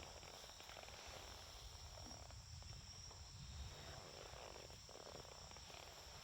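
Faint, steady chirring of crickets, with soft scattered crackles from a small wood campfire.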